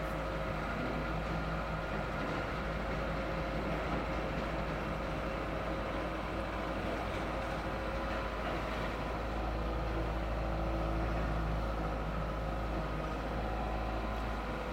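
Excavator engine running steadily, swelling slightly about ten seconds in.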